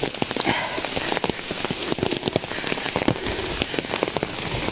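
Heavy rain falling steadily: a dense hiss scattered with many sharp, irregular drop hits close by.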